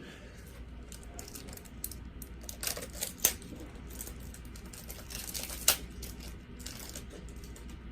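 Trading cards and plastic magnetic card holders being handled: scattered light clicks and taps, with two sharper clicks about three and six seconds in.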